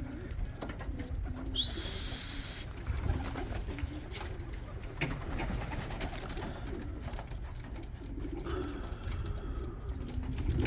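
Racing pigeons cooing with low, wavering calls. About two seconds in, a loud high-pitched tone rises briefly and then holds steady for about a second.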